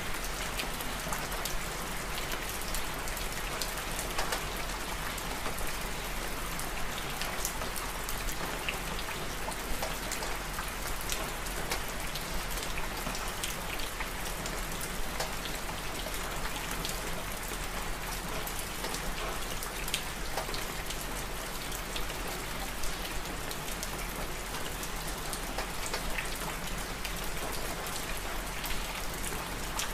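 Steady rain falling: an even hiss scattered with many small drop ticks, unchanging throughout.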